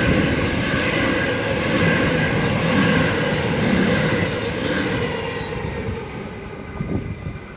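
Sydney Trains A set (Waratah) electric train passing through the station, its wheels and motors making a loud, steady rush with faint whining tones that fades away over the last couple of seconds as the train clears the platform.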